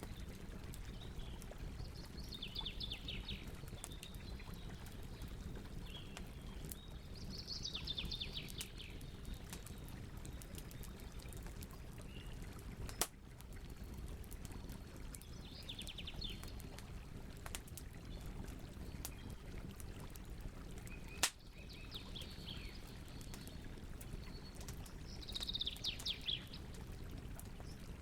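Campfire crackling with a steady low rush and a couple of sharp pops, while a bird gives short, fast trilling calls about five times.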